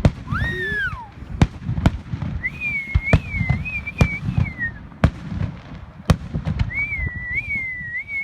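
Fireworks going off in quick succession: a dozen or so sharp bangs over a constant low rumble. Under them are whistling tones: a short one that rises and falls just after the start, then two longer wavering whistles.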